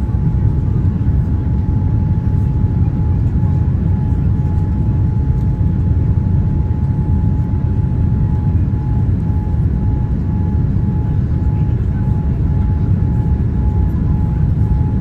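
Boeing 787-9 airliner cabin noise: a loud, steady low rumble of engines and airflow with a thin steady tone above it.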